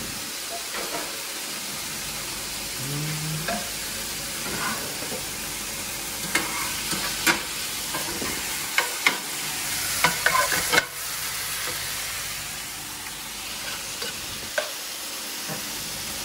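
Chicken and bacon frying in pans with a steady sizzle, while utensils stir the food and scrape against the pans. Sharp clacks of a utensil knocking on a pan come several times, bunched in the middle.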